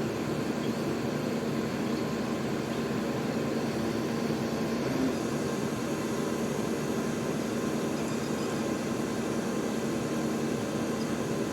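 Heavy machinery engine running steadily: a constant drone with a low hum.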